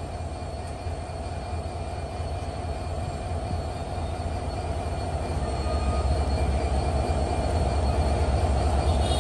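Diesel-hauled passenger train running on the track, a steady rumble of locomotive and wheels that grows gradually louder as it comes closer.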